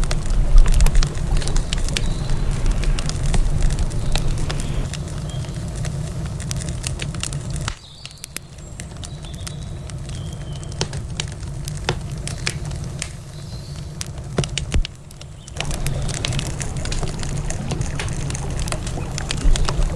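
Wood campfire crackling with many sharp pops and snaps, over a steady low rumble. The rumble drops away for several seconds in the middle, then returns.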